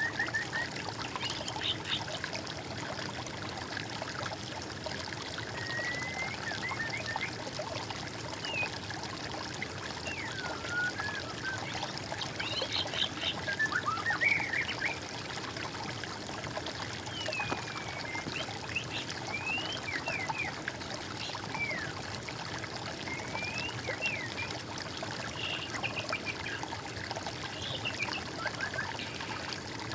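Water trickling and flowing steadily, with songbirds calling over it in short chirps and whistles scattered throughout, busiest about halfway through.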